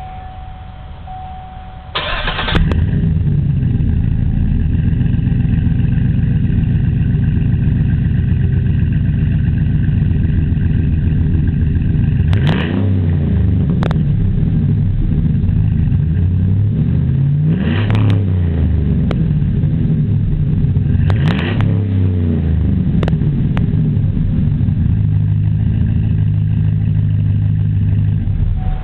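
2007 Chevy Silverado VortecMax 6.0 L V8 with a Flowmaster 40 Series exhaust starting up about two seconds in, then idling with a deep steady exhaust note. It is revved about three times, the pitch rising and falling each time.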